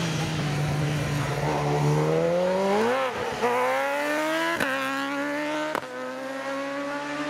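Superbike racing motorcycle engine accelerating hard, revs climbing and dropping through three upshifts, the last two sharp and about a second apart.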